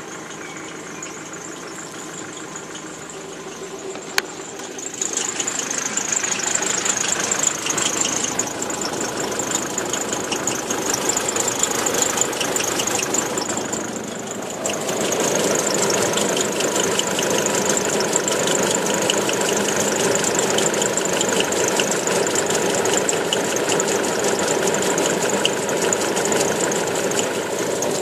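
Nissan Pathfinder 2.5-litre diesel engine running just after a cold start, with a fast, light rattling tick over the engine noise that the owner suspects comes from the alternator pulley. A single sharp click about four seconds in. The sound grows louder about five seconds in and again about halfway through.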